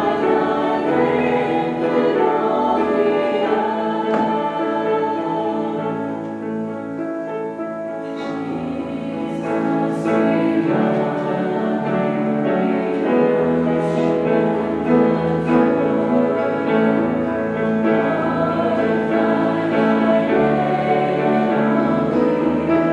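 A choir singing, the voices dipping briefly softer about six seconds in before swelling again.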